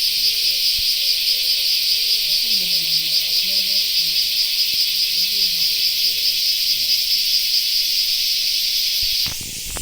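A shrill, steady, rapidly pulsing insect chorus, like crickets chirping. It cuts off abruptly near the end and gives way to a quieter hiss.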